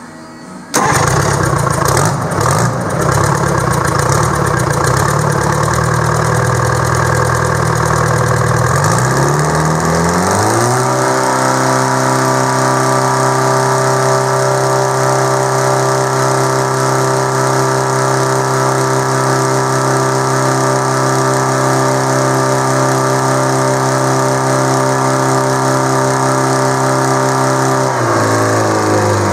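Detroit Diesel 4-53, a four-cylinder two-stroke diesel, starts up about a second in and runs unevenly at low speed. Around nine seconds in it speeds up smoothly and holds a steady higher speed, then slows again near the end.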